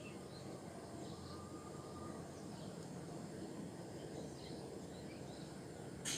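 Faint outdoor ambience: a steady low rush with a few scattered faint bird chirps, and a brief sharp noise near the end.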